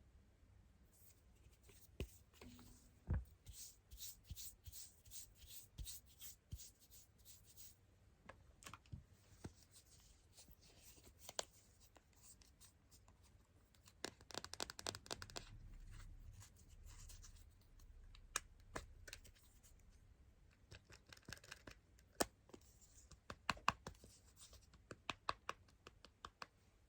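Close-up ASMR scratching, rubbing and tapping on a smartphone's camera lens for a mock 'lens makeup': quick runs of small dry scratches and ticks, sharp single taps, and a longer stretch of rubbing about halfway through.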